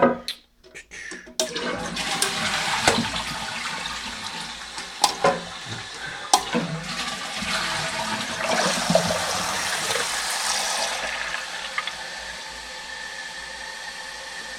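Toilet flushing: a few clicks, then water rushing for about ten seconds. Near the end it eases into a quieter steady hiss as the newly fitted Fluidmaster fill valve refills the cistern.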